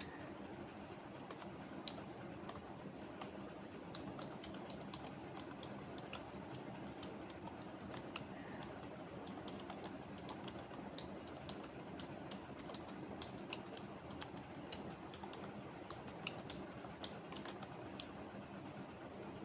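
Typing on a computer keyboard: quick, irregular keystroke clicks over a steady low background hum.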